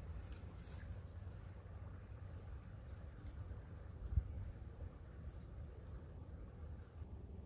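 A small bird calling with short, thin, high-pitched notes, repeated irregularly several times a second, over a steady low rumble of running water or wind. There is a single dull thump about four seconds in.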